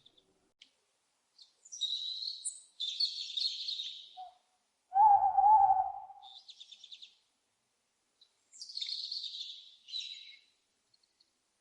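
Wild birds calling: two bursts of high-pitched chirping, a short rapid trill, and one louder, lower call lasting about a second, about five seconds in.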